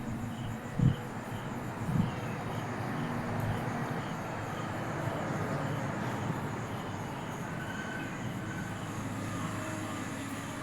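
Steady low rumble of distant vehicles, with crickets chirping faintly in the first few seconds and two brief knocks about one and two seconds in.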